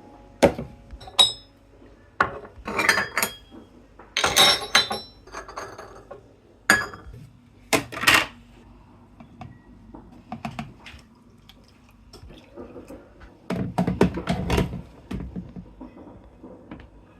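Dishes and cutlery clinking and knocking in a string of separate sharp strikes, some ringing briefly. The clatter gets busier a few seconds in, again at about eight seconds, and once more near the end.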